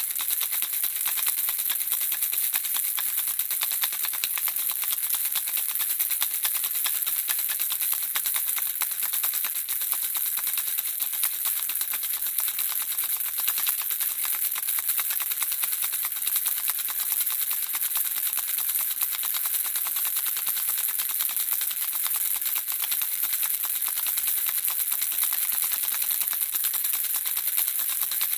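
Handheld baby rattle shaken steadily, the small beads inside clicking in a rapid, continuous, bright tinkling rattle.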